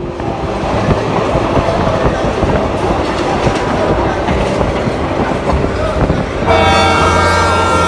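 Passenger train running, its wheels clattering and rattling over the rails. About six and a half seconds in, a steady stack of several tones starts abruptly and holds.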